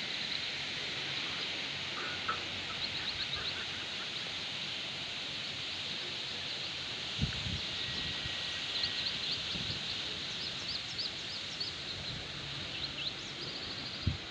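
Open-country ambience: a steady high hiss with small birds chirping and trilling here and there, and a couple of dull low knocks.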